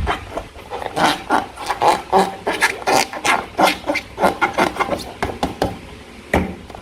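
Slime being squished and worked by hand: an irregular run of short squelches and sticky clicks, several a second.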